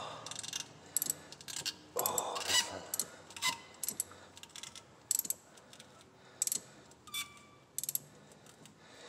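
Hand socket ratchet clicking in short irregular runs, with metal clinks of sockets and extensions, one of them ringing briefly about seven seconds in, during work on the spark plugs.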